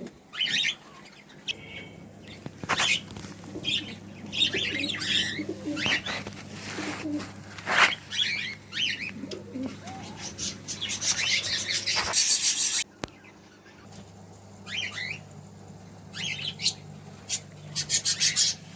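Many cage birds chirping and twittering in short repeated calls, with wings flapping in the cages and a steady low hum underneath.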